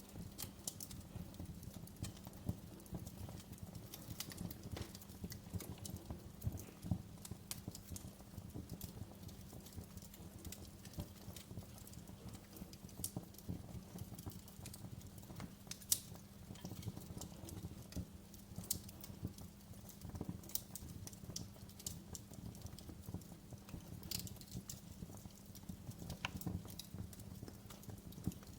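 Wood fire in a fireplace crackling: a steady low rumble of the flames with irregular sharp pops and snaps, a few louder ones standing out, the sharpest about sixteen seconds in.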